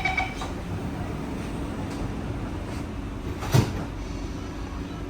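The door-closing chime of a Kawasaki C151C MRT train cuts off just after the start, leaving the carriage's steady low hum; about three and a half seconds in, the sliding doors shut with a single sharp thud.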